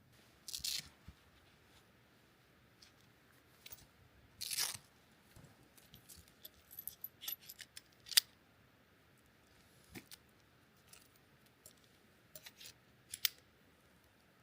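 Scattered faint crunches and sharp ticks of ice and snow in a frozen forest, irregularly spaced, with two longer crackling crunches and a single sharp crack near the middle.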